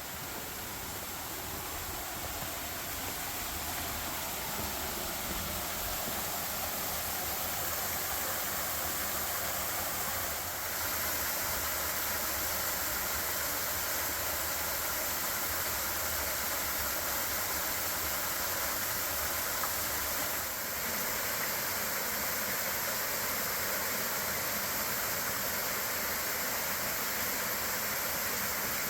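Water pouring over a partly frozen waterfall: a steady rush that grows louder over the first few seconds, steps up again about a third of the way in, then holds.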